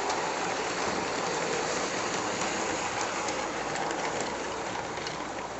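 Bachmann large-scale model train running along the track: a steady, even rolling noise of wheels on rail and the electric motor.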